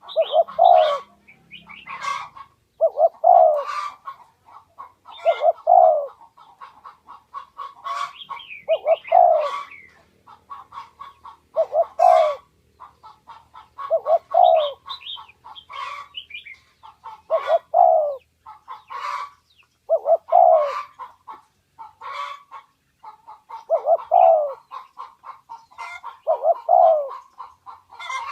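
Spotted doves cooing over and over, a low coo about every two seconds, with short sharp clicks and brief higher chirps between the coos.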